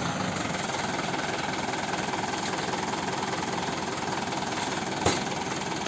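Tractor's diesel engine running steadily at idle, with one short knock about five seconds in.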